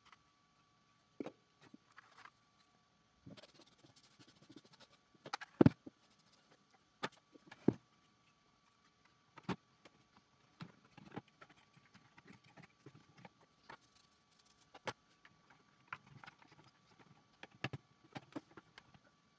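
Irregular plastic clicks and knocks from handling the parts of a robot vacuum, with the loudest knocks about five and a half seconds in. A faint steady high-pitched tone runs underneath.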